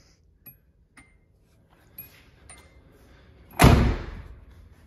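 A few faint clicks and taps, then a car door shutting with one heavy thud about three and a half seconds in.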